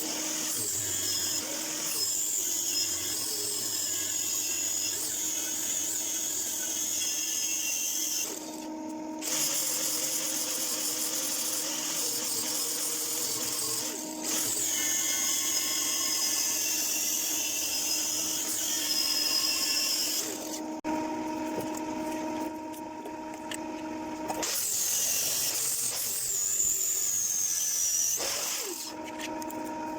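A handheld power tool running in long stretches with a high whine that dips and recovers in pitch as it works, stopping briefly about a third of the way in, for a few seconds about two thirds in, and again near the end.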